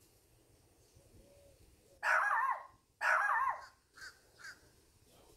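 A bird calling: two loud calls about a second apart, each just over half a second long and wavering in pitch, then two short, quieter calls.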